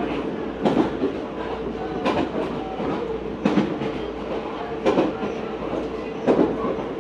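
Meitetsu 4000 series electric train running at steady speed, heard from inside the car: the wheels clack over rail joints about every 1.4 seconds over a steady running hum.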